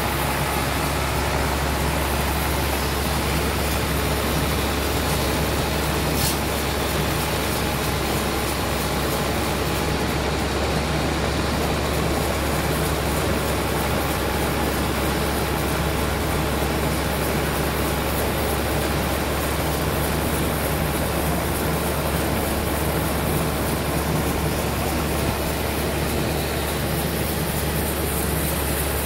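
Sawmill machinery running steadily: a constant low engine hum under an even mechanical noise, with one brief tick about six seconds in.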